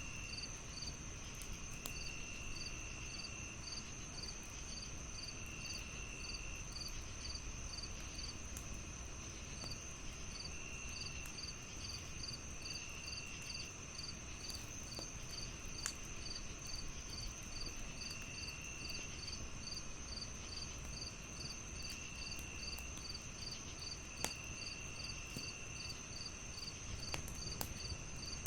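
Crickets chirping in chorus: a steady high trill, a regular chirp about twice a second, and a lower trill that comes and goes in bursts of about a second. A fireplace crackles underneath with a few sharp pops.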